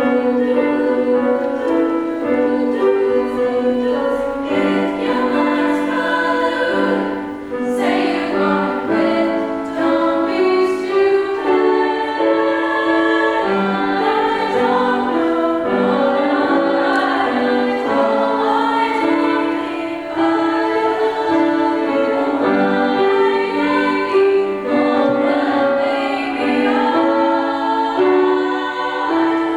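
A vocal group singing in close harmony, several voices holding and changing chords together.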